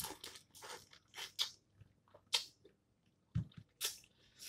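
Snow crab legs being cracked open and eaten: an irregular series of short, sharp crunches and snaps of the shells, with eating sounds between them.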